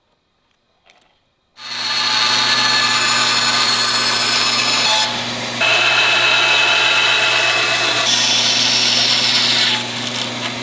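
An electric woodworking machine starts up about one and a half seconds in and runs loudly on wood, a steady motor hum under a noisy cutting sound that shifts a few times as the work goes through and eases off near the end.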